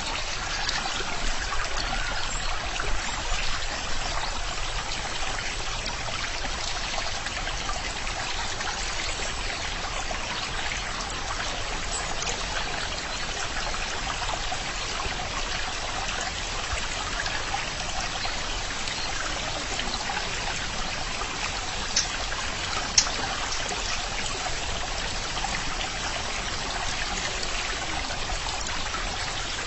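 Stream water trickling and flowing steadily over stones, an even rushing splash with no break. Two brief sharp ticks stand out late on.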